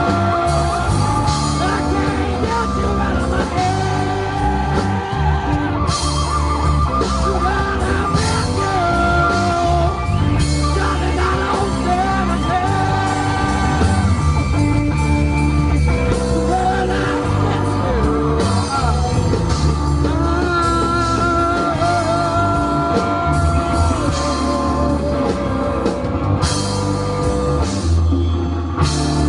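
A rock band playing live, with a singer over amplified electric guitar and a full band backing.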